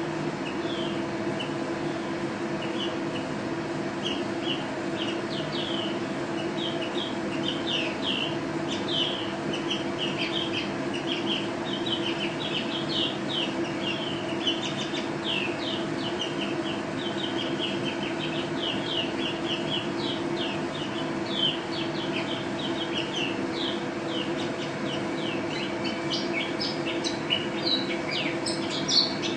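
Pleci (white-eye, Zosterops) singing continuously: a rapid stream of short, high twittering chirps, a little louder near the end, over a steady low mechanical hum.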